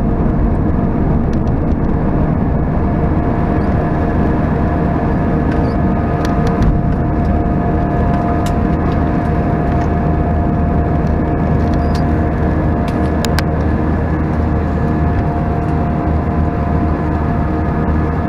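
Cabin noise of an Airbus A319 in flight: a steady roar and hum of its IAE V2500 engines and airflow, with a constant whine-like tone through it. A few faint ticks sound in the middle.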